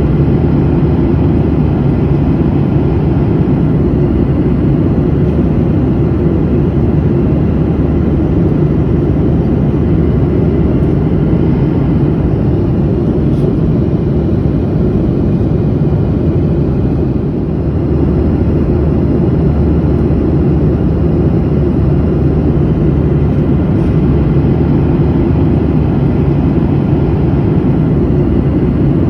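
Steady, loud drone of a passenger airliner in flight, heard inside the cabin: engine and airflow noise, deepest in the low end and unchanging.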